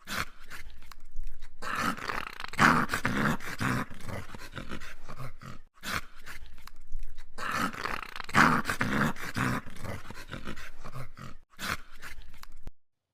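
A dog growling in uneven bursts, with a few short breaks.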